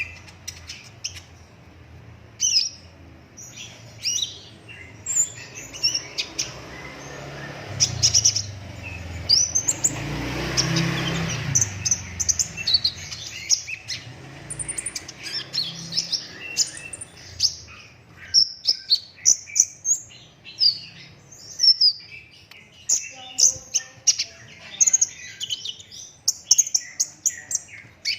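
Kolibri ninja sunbird singing non-stop, rapid runs of sharp, high chirps and trills. A broad rushing noise swells and fades about eight to twelve seconds in.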